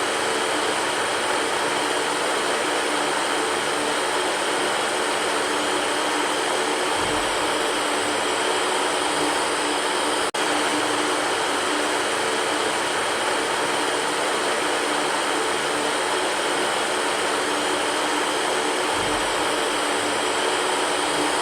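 Electric fan running steadily: an even rush of air with a low hum. The sound drops out for an instant about halfway through.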